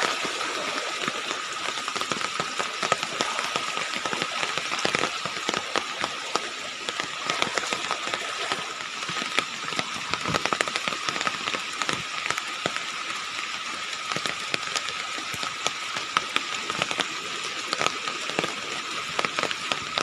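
Rain-swollen stream running steadily: a dense, even wash of water full of fine crackles, with a thin steady high tone throughout.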